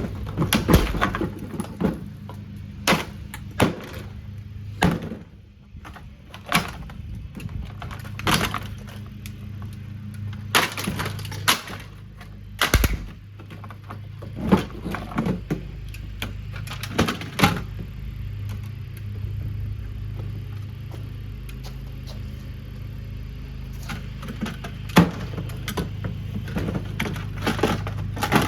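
A Kuppet portable washing machine's plastic body being smashed apart: irregular hard impacts and cracking, a dozen or more blows spread unevenly, over a steady low hum.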